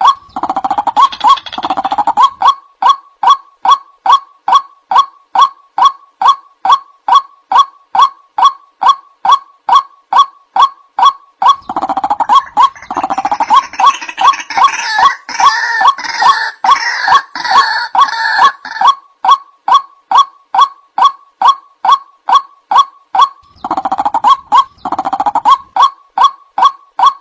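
Male white-breasted waterhen calling a loud, harsh note over and over, about two to three times a second. Three stretches are denser, with overlapping, noisier calling: just after the start, a longer one from about halfway, and one near the end.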